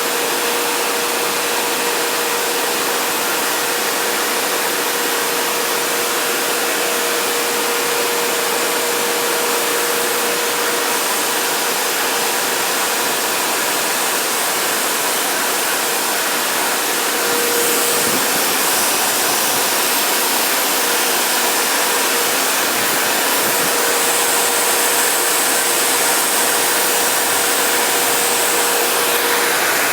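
Steady rush of falling water from a waterfall, an even noise that doesn't let up, with a faint steady hum running under it.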